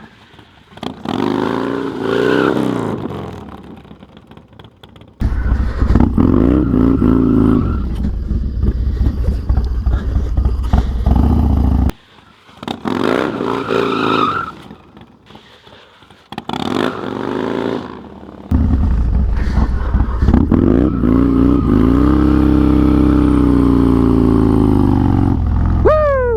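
Harley-Davidson Dyna's V-twin engine revving hard in several bursts, each rising and falling in pitch, as the rider throttles up to break the rear tire loose for drifts. In the longest, last burst the revs are held high, then fall away near the end.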